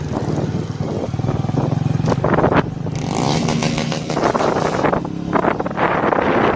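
Motorcycle engine with a straight-through exhaust (no muffler) running loudly under way, a dense rapid firing pulse with shifts in level.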